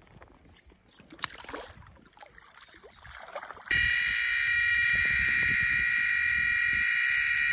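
Electronic carp-fishing bite alarm sounding one continuous high-pitched tone, starting suddenly about four seconds in and holding steady. This is the sign of a run, with a fish taking line.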